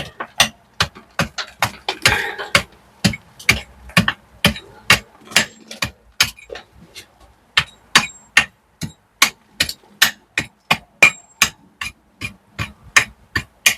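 Hand hammer blows chipping loose mortar out from around cobblestones: a steady run of sharp strikes, about three a second.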